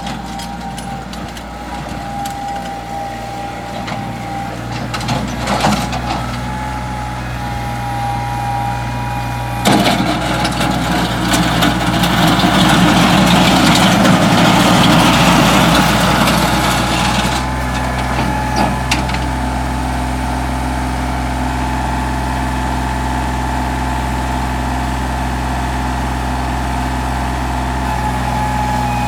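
Kubota 3830 compact tractor's diesel engine running steadily. A few short knocks come around five to six seconds in, and a loud rushing, noisy stretch lasts from about ten to seventeen seconds in before the engine settles back to a steady run.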